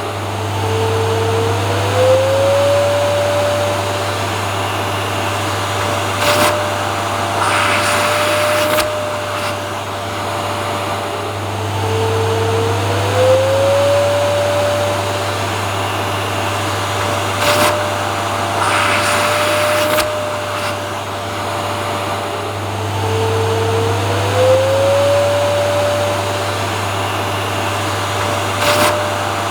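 Vacuum cleaner running continuously with a steady low hum. Its motor whine rises in pitch and then holds, three times about eleven seconds apart, with brief louder whooshes of airflow in between.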